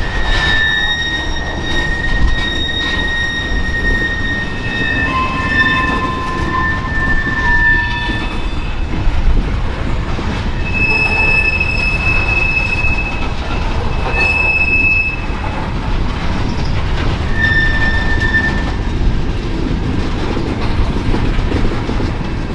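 Freight train rolling past with a steady low rumble, its wheels squealing in thin high tones that come and go: long squeals over the first several seconds, again in the middle, and a short one near the end.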